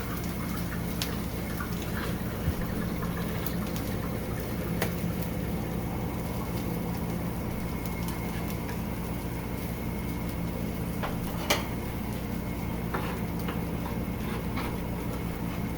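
Steady kitchen background hum with a faint hiss, broken by a few light clicks and taps of utensils and food while a sandwich is being assembled.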